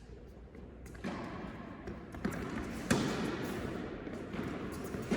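A few separate thuds of a tennis ball on an indoor court, spaced a second or so apart, the loudest about three seconds in, over a low background hum of the hall.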